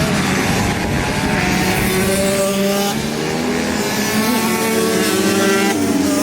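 A field of pit bikes racing on the track, several small engines revving up and down at once with their pitches shifting as riders go through the gears and corners.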